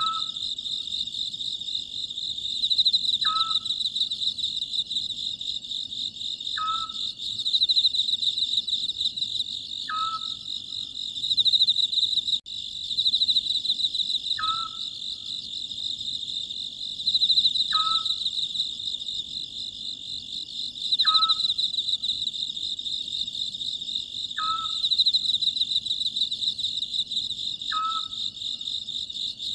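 Oriental scops owl calling, a short hooting note repeated about every three and a half seconds, over a steady high-pitched chorus of crickets.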